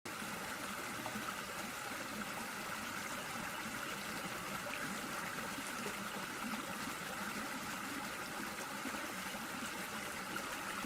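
Steady rush of water pouring over a small waterfall or cascade on a creek.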